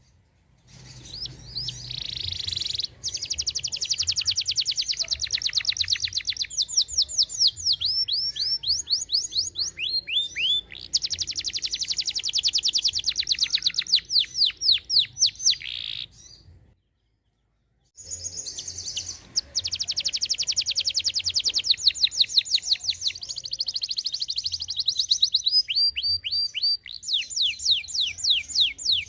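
Canary singing: long, fast trills of rapidly repeated notes alternating with slower runs of falling sweeps. The song cuts to dead silence for about a second a little past the middle, then resumes.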